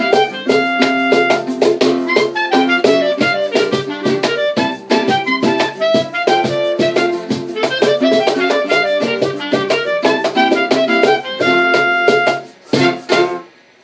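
Acoustic bossa nova ensemble playing the closing bars of a song, ending on a few final chords shortly before the end, after which only a faint hiss remains.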